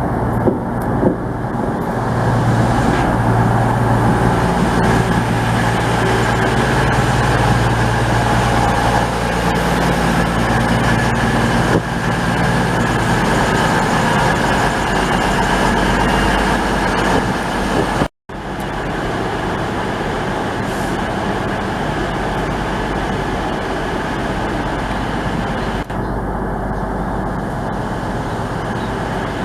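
A train's engine running steadily, with a low hum that is strongest in the first half. About eighteen seconds in, the sound cuts out for a moment and then carries on at a slightly lower level.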